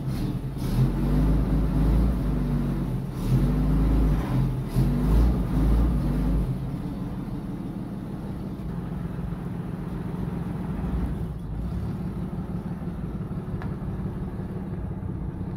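1937 Plymouth coupe's flathead six-cylinder engine running as the car moves off. Its pitch rises and falls over the first six seconds, then it settles to a steadier, quieter run.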